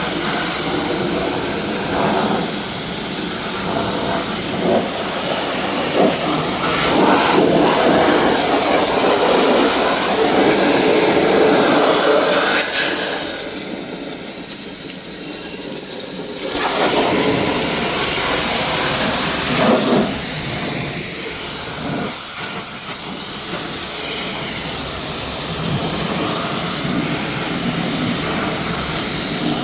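A high-pressure jet hissing steadily as it is played over the car, briefly easing off for a few seconds around the middle.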